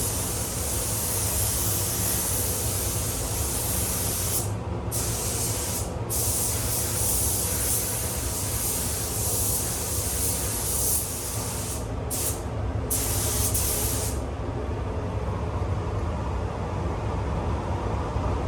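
Paint spray gun hissing as a coat goes onto a car boot lid, the trigger let off briefly a few times and released for good about fourteen seconds in. A steady low hum runs underneath.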